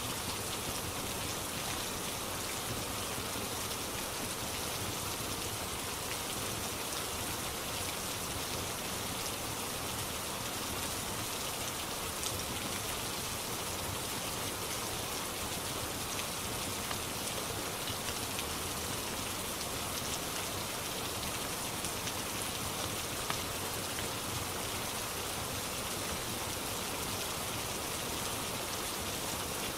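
Steady rain falling, with a few faint pops of a crackling fireplace now and then.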